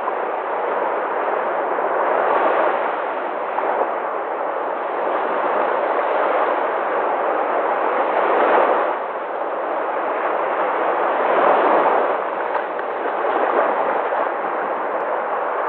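Sea waves breaking and washing in continuous surf, swelling louder about two and a half, eight and a half and eleven and a half seconds in.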